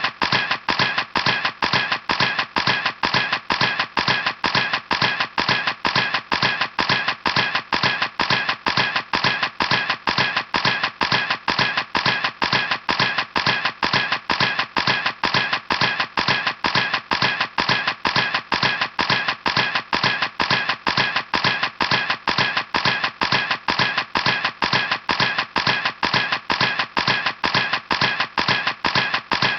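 Camera shutter clicking over and over in an even, fast rhythm, about three clicks a second.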